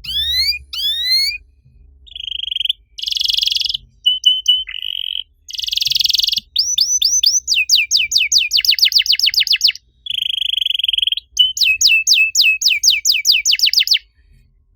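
Domestic canary singing a long, varied song: rising whistled notes, buzzy rolling phrases and runs of rapid repeated chirps, breaking off about a second before the end.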